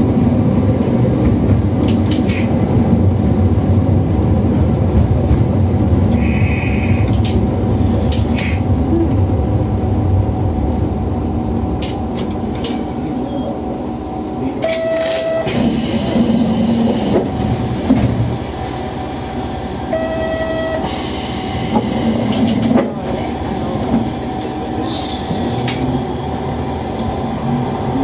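Diesel railcar running along the track, with a steady engine and rail rumble and scattered wheel-on-rail clicks. About 15 and 20 seconds in comes a short steady tone, each followed by a hiss lasting a second or two.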